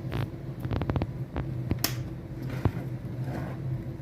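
Scattered clicks and light knocks from TV panel parts being handled during reassembly, over a steady low hum.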